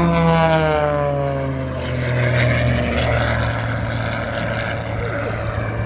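Wolf Pitts Pro aerobatic biplane's piston engine and propeller passing by, the pitch sliding down over the first couple of seconds as it goes past, then settling to a steadier, lower drone.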